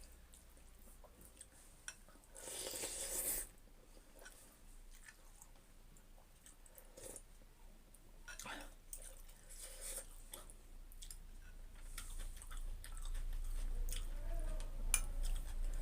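Close-up mouth sounds of someone eating chicken thukpa noodle soup: chewing, with scattered small clicks and a louder rushing burst lasting about a second, about two and a half seconds in.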